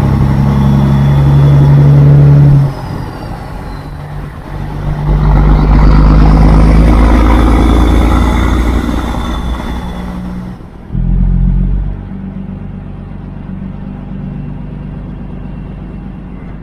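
Semi truck's diesel engine running under load, loud at first, dipping a few seconds in, then building up loud again. After about ten seconds it drops to a lower, steadier note, with one short surge just after.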